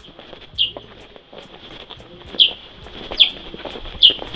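A bird calling again and again: four short, sharp chirps, each dropping in pitch, spaced roughly a second apart, over a faint steady high tone.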